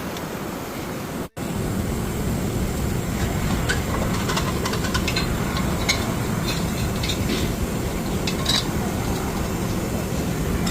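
A vehicle engine running steadily, with scattered light clicks from about three seconds in.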